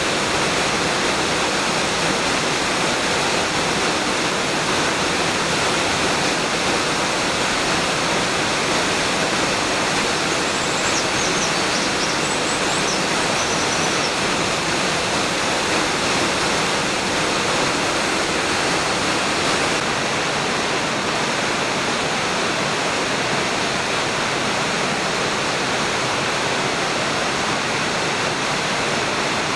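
A waterfall about 20 m high with a heavy flow, plunging into its pool: a steady, dense rush of falling water. A few faint high chirps come through around the middle.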